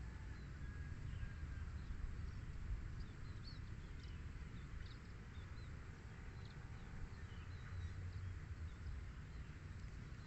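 Small birds giving short, scattered chirps and twitters over a steady low rumble of outdoor noise, with one brief steady whistle near the start.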